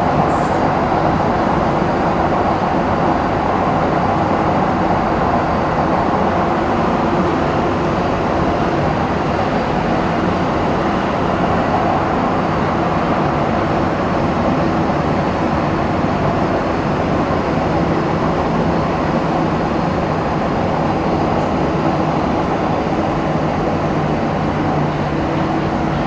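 KVB B80D light-rail car running steadily, its new traction converter and old traction motors giving a steady drone with level tones over the rolling noise of the wheels on the rails. A lower tone grows stronger over the last few seconds.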